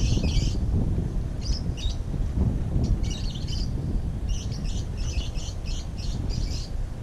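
Small birds chirping in quick clusters of short, high notes, coming in bursts every second or so, over a low rumbling noise.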